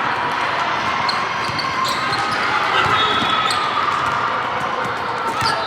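Basketball game sounds in a gym: a ball bouncing on the court and short high squeaks about three seconds in, over steady chatter of spectators.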